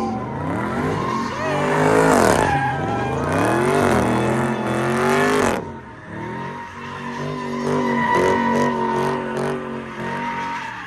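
V8 muscle car engine revving hard, its pitch rising and falling, with tyres screeching during a burnout or donut. About halfway through it drops off to a quieter, steadier engine sound.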